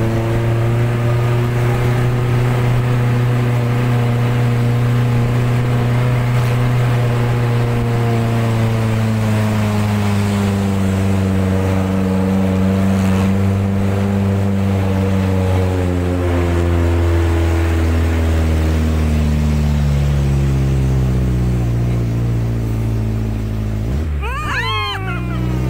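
Jeep engine running under way, its note slowly rising and falling with the throttle and dropping lower after about two-thirds of the way. Near the end there is a brief, rapid swoop in pitch.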